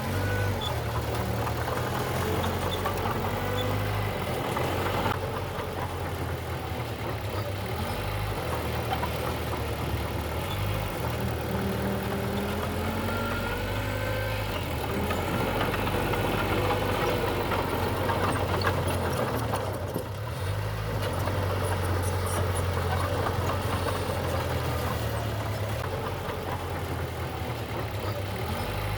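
Diesel engine of heavy earthmoving machinery running steadily, with a few faint squeals that rise and fall in pitch.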